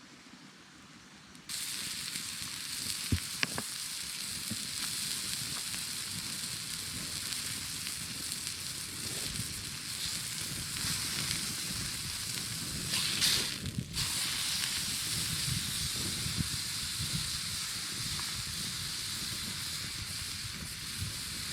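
Food frying in a pan over a campfire: a steady sizzle with scattered small crackles. It starts abruptly about a second and a half in.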